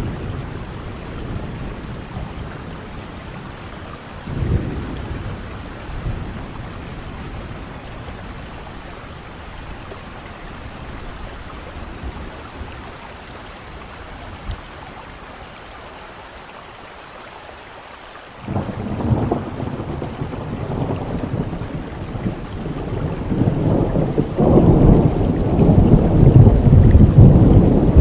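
Steady rain with thunder: a brief rumble about four seconds in, then a long low roll of thunder breaks in suddenly about two-thirds of the way through and builds to its loudest near the end.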